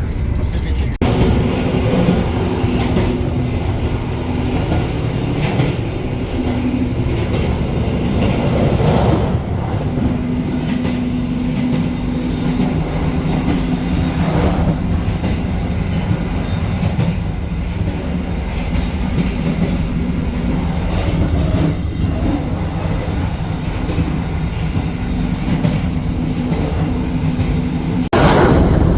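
Argo Bromo Anggrek passenger train running at speed, heard from inside the coach: a steady rumble of wheels on the rails with a low hum that comes and goes. The sound changes abruptly about a second in and again near the end.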